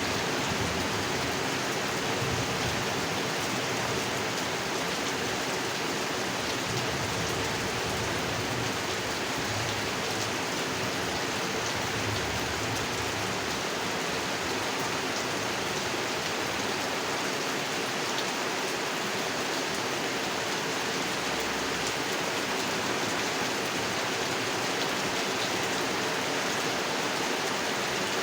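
Steady rain falling on a pond, an even unbroken hiss of drops on water.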